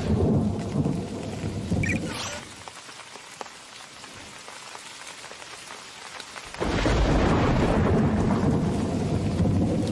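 Cartoon sound effects of a rainstorm: heavy rain with low thunder rumble that eases off after about two and a half seconds. About seven seconds in, a loud rumble of thunder breaks in suddenly, with the downpour behind it.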